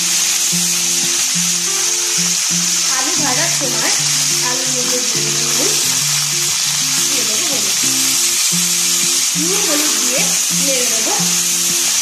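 Diced potatoes frying in hot oil in a pan, a steady hissing sizzle, over background music with a slow melody of held notes.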